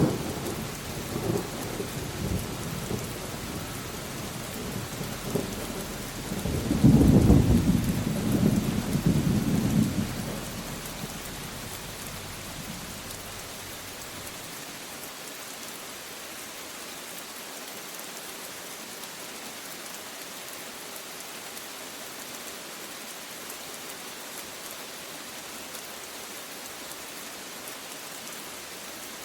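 Steady rain with thunder: a rumble dies away over the first few seconds, then a louder peal of thunder rumbles about seven seconds in and fades out by about thirteen seconds, leaving only the rain.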